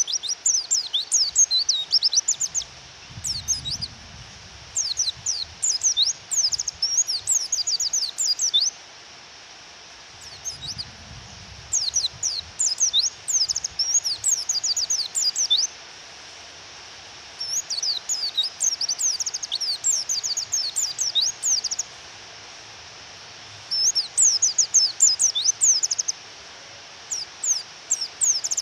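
Female white-eye (pleci) calling in bouts of rapid, high, falling chirps, each bout a few seconds long with short pauses between. The calls sound over a steady hiss of rain.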